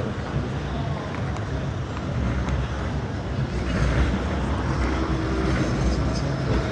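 Steady road traffic, vehicles passing along a busy street, growing a little louder about halfway through.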